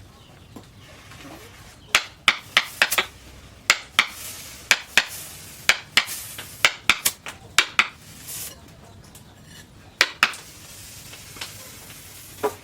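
Irregular sharp taps and clinks of metal on metal, starting about two seconds in and coming in quick clusters, with a couple of short scraping sounds between them and a pause before a last few knocks.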